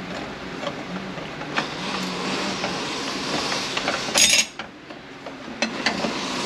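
Steel clutch plates of an 8L90 automatic transmission clinking against each other as they are handled and fitted into the clutch drum, with a louder metallic clatter about four seconds in.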